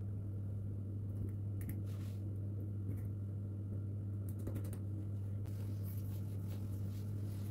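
A steady low electrical hum runs under light clicks and taps of kitchen items being handled, including a quick cluster of small ticks a little past the middle.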